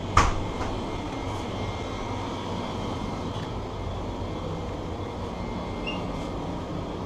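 Steady hum of a convenience store's glass-door drink coolers and air conditioning, with one short sharp sound just after the start.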